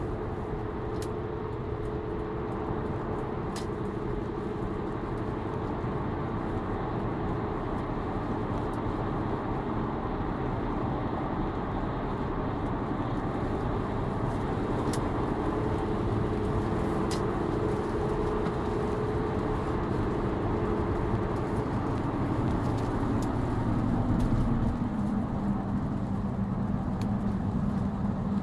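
A 2004 Chrysler 300M Special driving, its V6 running under a steady rolling drone that comes largely from its deformed tyres. About 23 seconds in, the pitch slides down and settles lower.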